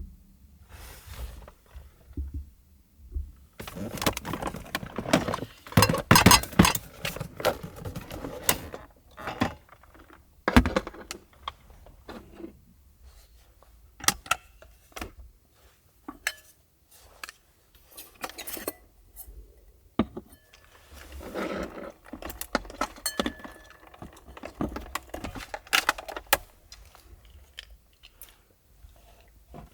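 Small hard objects being handled close up: a long irregular run of clicks, clinks and knocks with rustling between them, busiest about four to nine seconds in and again near the end.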